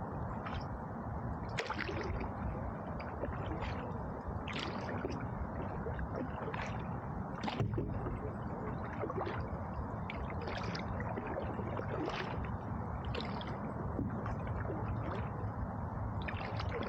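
Canoe paddle strokes dipping and pulling through river water, roughly one stroke a second, over a steady low rushing noise.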